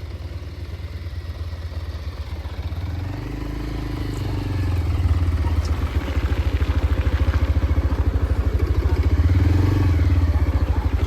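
Mahindra 475 tractor's diesel engine running with a steady low throb, which grows louder about four seconds in and then holds.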